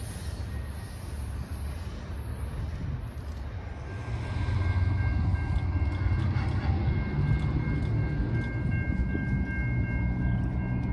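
Freight train rumbling, louder about four seconds in, with steady high-pitched tones over the rumble from then on.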